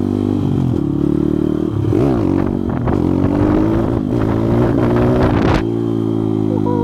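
Pit bike engine running under way, its pitch rising and falling repeatedly with the throttle. About five and a half seconds in there is a sharp clack, after which the engine holds a steady pitch.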